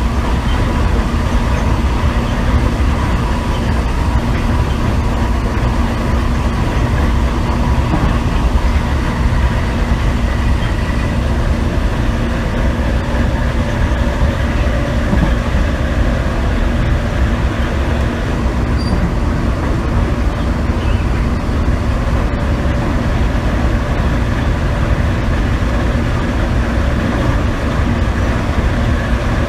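MTR East Rail Line MLR electric train running steadily at speed, heard from inside the car: a constant rumble of wheels on track under the steady hum and whine of its strong traction motors.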